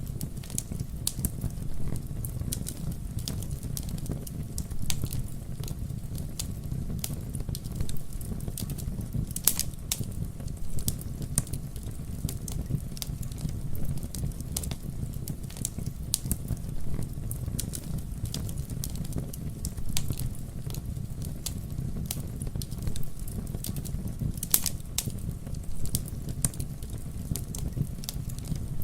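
Wood fire burning with a steady low rumble and irregular crackles and pops, a few of them louder, the loudest about a third of the way in and again near the end.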